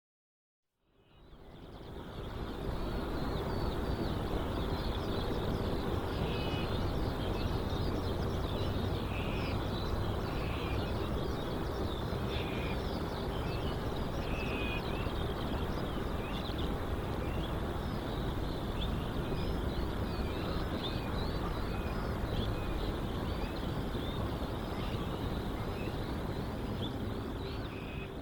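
Outdoor ambience: many small birds chirping continuously over a steady low rumble and hum. It fades in about a second in and fades out at the very end.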